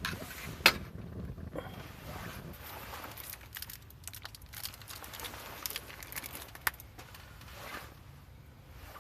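Wood fire crackling in a camp fireplace, with irregular sharp pops: a loud one just under a second in and another about two-thirds of the way through.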